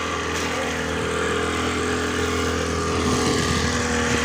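Motorboat engine running at a steady speed, with a steady hiss of water and wind over it.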